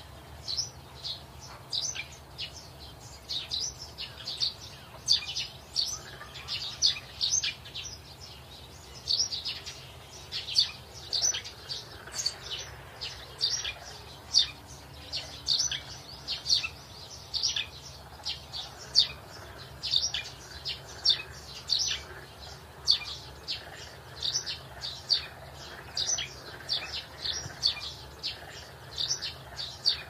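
Small birds chirping: a continuous string of short, high chirps, several every second.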